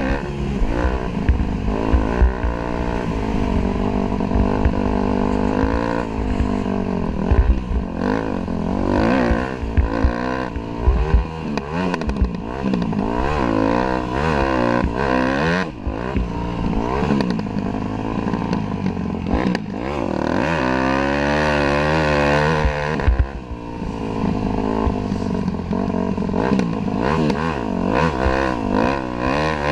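Dirt bike engine revving up and falling back again and again as it is ridden, with a steadier high-revving stretch about two-thirds of the way through before it drops off. Heard from a camera mounted on the bike, with clatter and low thumps from the ride.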